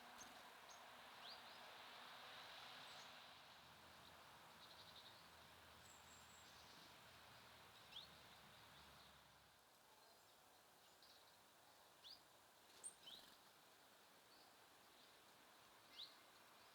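Faint outdoor ambience with small songbirds giving scattered single short, high chirps, about half a dozen spread over the stretch, over a steady soft hiss.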